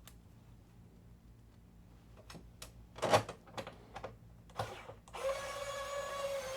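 A few sharp clicks and knocks of parts being handled, the loudest about three seconds in, then a small electric screwdriver's motor running steadily for about two seconds near the end as it drives a Phillips screw.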